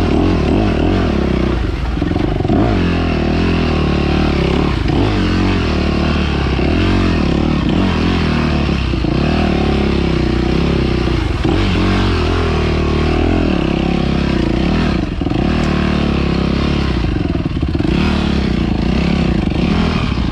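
Dirt bike engine running at low revs, its pitch rising and falling with the throttle, with some clatter from the tyres over loose stones.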